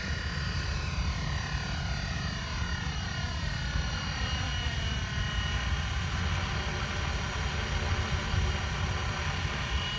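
450-size radio-controlled helicopter running in flight: a steady whine from its motor and rotors over a rumbling low noise, the whine dipping in pitch and rising again about halfway through.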